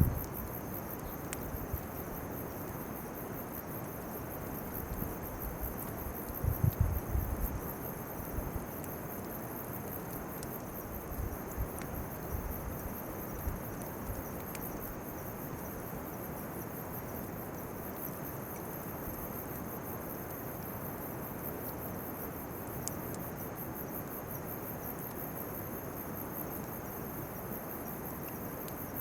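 Steady, high-pitched insect chirring, with a few low bumps about seven seconds in and again around twelve seconds, and occasional faint ticks.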